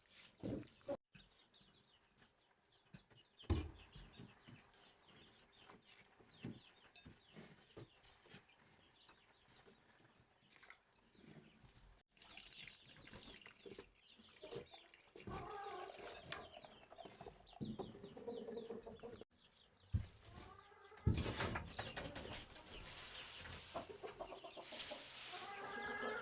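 Domestic chickens clucking in a series of short calls, over scattered light knocks, growing louder in the last few seconds.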